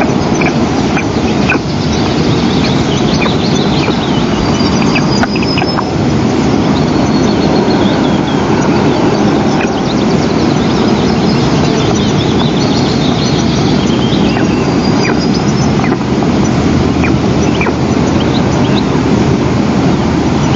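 Eastern imperial eagle chicks giving thin, high begging chirps and short whistles now and then, over a steady low rushing noise.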